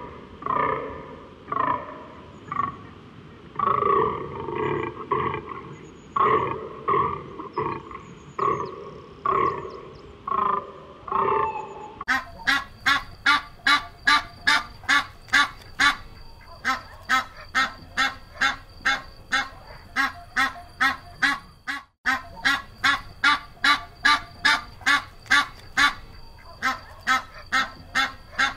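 Domestic goose honking in rapid, even runs of about three to four calls a second, starting about twelve seconds in and pausing briefly near the end. Before that, a different animal gives a series of irregular, pitched calls.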